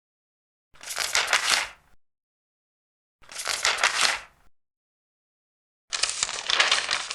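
Three large paper pages being turned one after another, each a crisp rustle lasting just over a second, with dead silence between turns.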